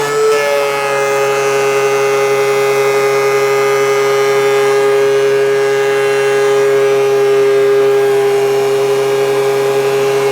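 Thickness planer running with a steady high whine while planing a maple board; the pitch dips slightly just at the start, then holds steady.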